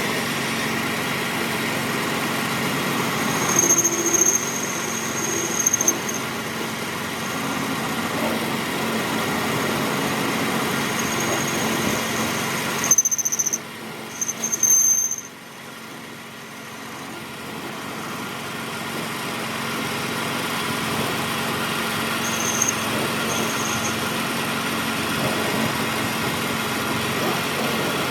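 A workshop machine running steadily with a low hum, with short high-pitched squeals on and off. It drops quieter for a few seconds about halfway through, then picks up again.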